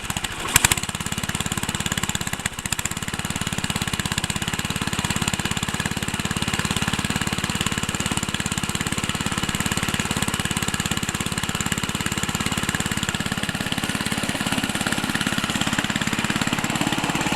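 1975 Ariens snowblower's small gasoline engine running steadily just after a cold start, its augers engaged, with one sharp crack about half a second in.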